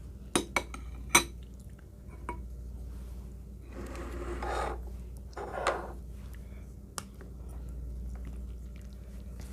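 Eating utensils clinking against bowls and dishes: a few sharp clinks in the first second or so, the loudest just after one second, and another about seven seconds in, with two softer, longer noises in between.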